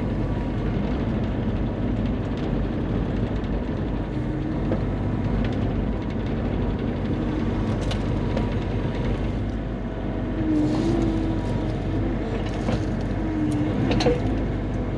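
Bobcat E35 mini excavator's diesel engine running steadily under working load. A higher steady hum comes in about ten seconds in, and a few knocks sound near the middle and the end.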